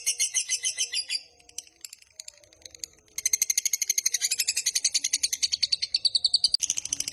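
Lovebird's long 'ngekek' chattering song: a rapid run of sharp, high notes, about ten a second. It breaks off about a second in, leaving a couple of seconds of faint chips, then starts up again about three seconds in and carries on.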